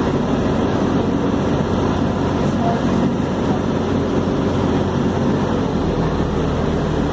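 Ferry boat's engine running steadily, a low hum under a constant rush of noise.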